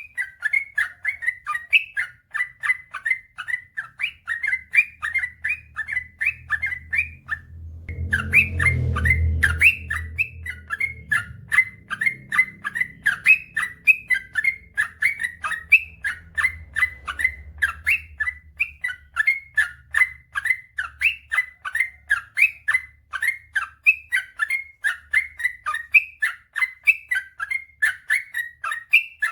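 Yellow-vented bulbul (trucukan) singing a long unbroken run of quick, repeated chattering notes, pausing briefly about seven seconds in. A low rumble rises under the song around eight seconds in and fades over the next few seconds.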